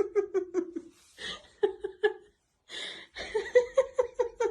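A person laughing in quick repeated bursts, in three bouts with short pauses between them.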